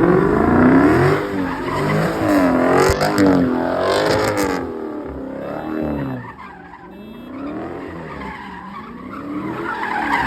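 V8 muscle car engine revving hard while the car slides, its pitch rising and falling over and over, with tyres screeching. It is loudest in the first half and eases off somewhat after the middle.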